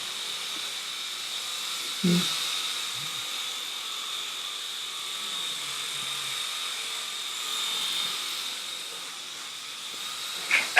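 Small battery-powered remote-control airplane's electric motor and propeller whining steadily, a thin high-pitched buzz that eases a little near the end. A brief thump about two seconds in.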